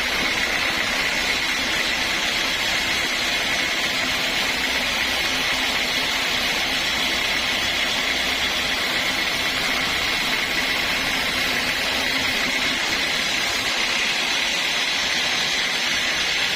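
Sawmill machinery running steadily: a constant mechanical din with a steady high whine, unchanging throughout.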